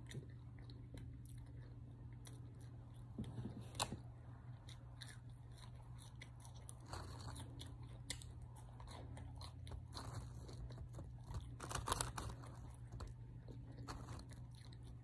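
Chewing and crunching of French fries, with many small clicks. The louder crunches come about four seconds in and again around twelve seconds in, over a steady low hum.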